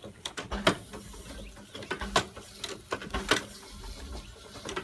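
Sharp clicks and knocks at irregular intervals, the loudest about a second apart, over a faint steady low hum.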